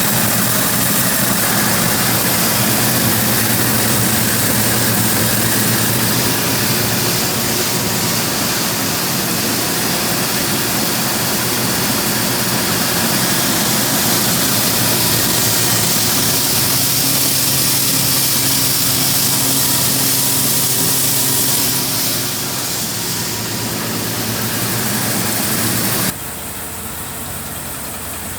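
Tractor engine running a grain grinder that is cracking corn screenings fed in by an auger: a loud, steady machinery drone. Near the end it drops suddenly to a quieter, duller hum.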